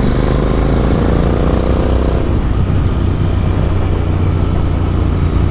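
Royal Enfield Interceptor 650's parallel-twin engine running through a Motowings aftermarket exhaust while riding. The engine note rises as it pulls, then drops away about two seconds in and settles to a steady low rumble.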